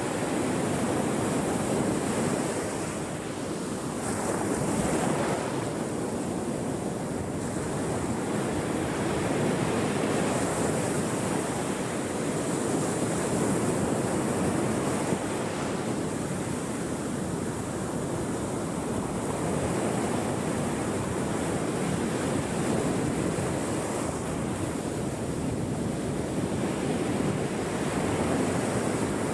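Ocean surf washing continuously onto the shore, swelling and easing every several seconds.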